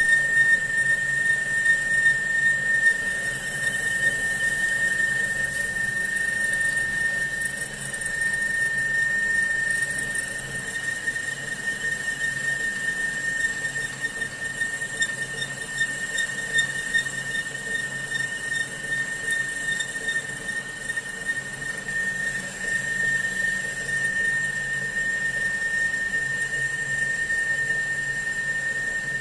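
A steady high-pitched squeal of a cutting tool working through steel.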